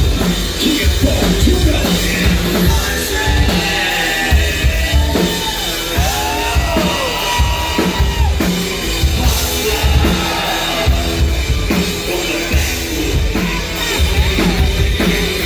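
Live country-rock band playing an instrumental break, with a steady kick-drum beat under a bending lead melody line, heard in a large room.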